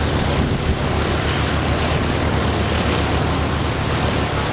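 Propeller airplane engine running steadily, with a low, even drone and a dense wash of noise.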